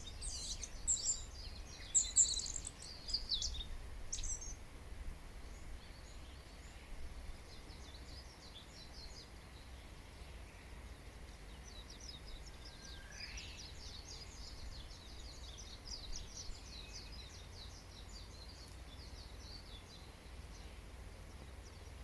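Wild birds chirping and singing: a loud flurry of high chirps in the first four seconds, then a fainter run of quick chirps later, one note sliding downward. A steady low rumble runs underneath.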